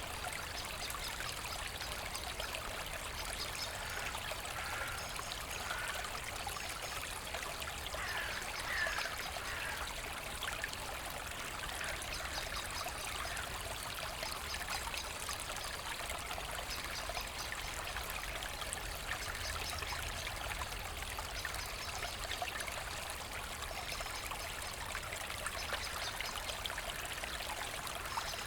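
Forest brook running steadily, a continuous babble and trickle of flowing water.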